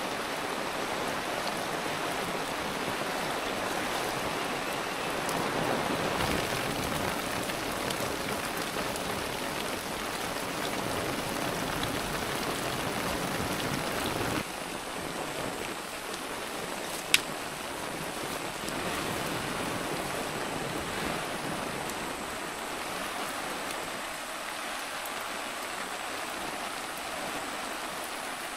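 Steady rain falling with a continuous hiss. Its level drops slightly about halfway through, and a single sharp click comes a few seconds later.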